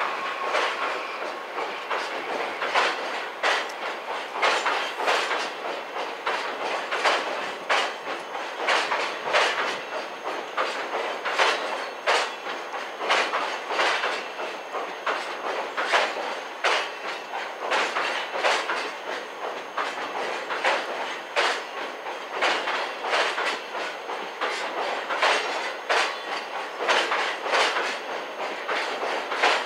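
Loaded cement tank wagons rolling across a steel girder railway bridge, their wheels giving a repeated clickety-clack over the rail joints. A thin wheel squeal stops about a second in. Wind noise buffets the microphone throughout.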